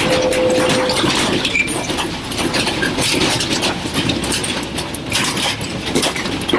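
A classroom shaking in a strong earthquake: a loud, continuous rattle and clatter over a rumble, full of rapid sharp knocks.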